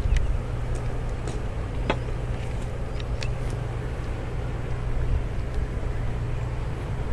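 Freight cars rolling away along the track: a steady low rumble, with a few brief high squeaks and clicks from the wheels and rails in the first few seconds.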